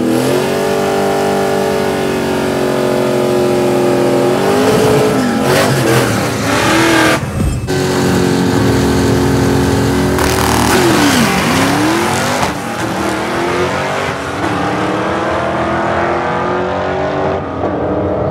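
Two Fox-body Mustang drag cars' engines running loud at the starting line, held at steady revs and dipping and climbing again in pitch a few times.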